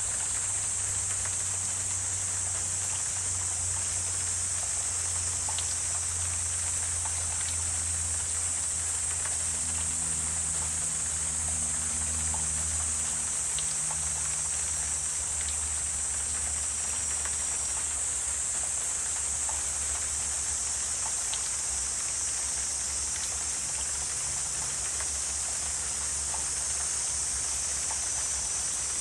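Wetland nature ambience: a steady high-pitched hiss typical of a distant insect chorus, over a low steady hum, with scattered faint ticks.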